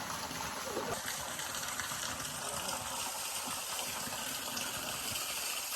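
Mountain spring water running steadily: an even rush of flowing water.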